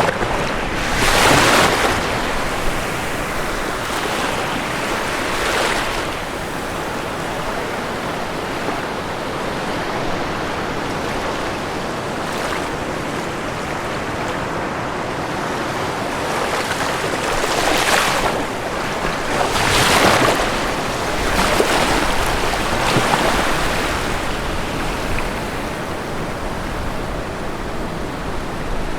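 Ocean waves breaking on a shore over a steady wash of surf, with louder breakers about a second in and again in a cluster between about 18 and 24 seconds.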